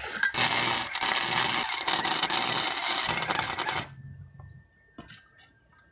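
Arc welder laying a bead: a dense, steady crackling hiss for about three and a half seconds that stops abruptly, followed by a few faint clicks.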